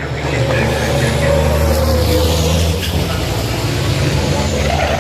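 Racing trucks' big diesel engines running hard on the circuit. The engine note swells and rises in pitch, then falls away, about two seconds in.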